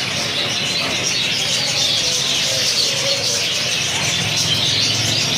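A flock of lovebirds chattering, many high chirps overlapping in a steady din.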